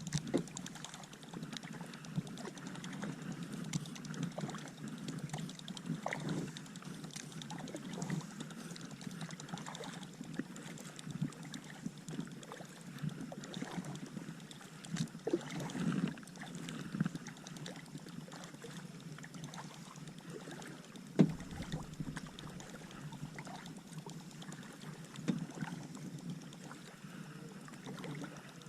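Irregular light knocks and handling noise from a fishing kayak on the water, with one sharp knock about two-thirds of the way through.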